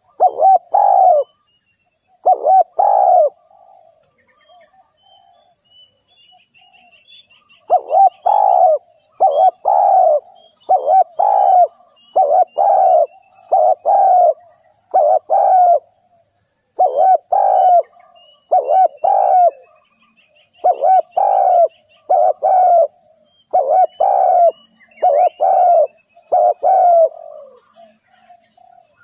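Spotted dove cooing over and over in short phrases of a few notes. It pauses for a few seconds near the start, then calls steadily for most of the rest. Faint chirping of small birds runs behind it.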